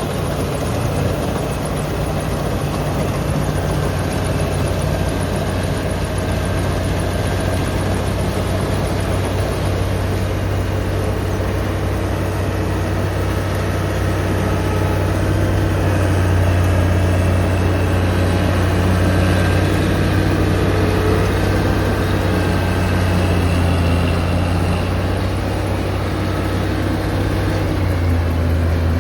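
Engine of a crop-cutting farm machine running steadily as a loud, even low hum; its pitch dips slightly near the end.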